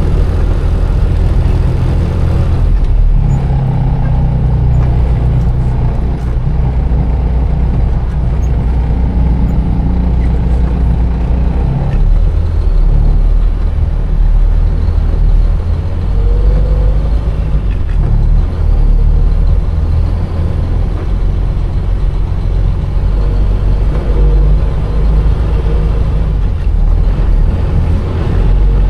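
Container truck's diesel engine running, heard from inside the cab; its note changes about three seconds in and again around twelve seconds.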